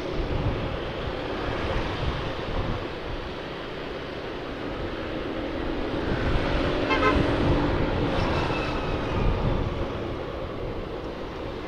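Motorcycle engine running while riding, with wind buffeting the microphone. A short horn-like toot about seven seconds in, then pitch glides as the engine note changes.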